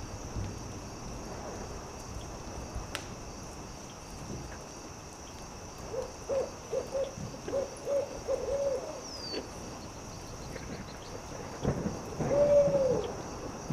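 An owl hooting: a quick run of about seven short hoots, then after a pause one longer, louder hoot that falls off at the end. Faint campfire crackles and pops sound under it.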